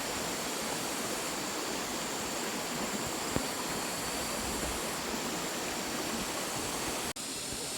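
Steady, even rushing noise with no distinct sounds in it, cut off abruptly for a moment near the end.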